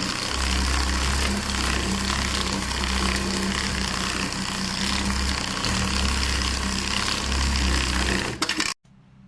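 A loud machine running with a dense noise and a low hum that swells and eases, cutting off abruptly near the end.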